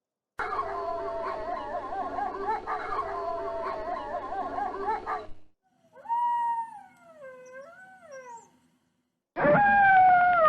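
Wolves howling: first a pack chorus of many overlapping, wavering howls that stops about five seconds in, then a single howl rising and falling in pitch, then, after a short silence, a loud howl sliding downward near the end.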